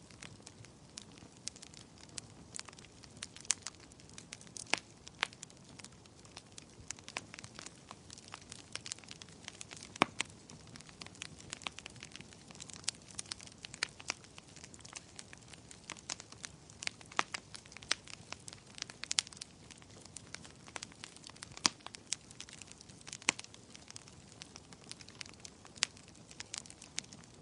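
Wood fire crackling, with irregular sharp pops and snaps several times a second over a soft steady hiss of burning.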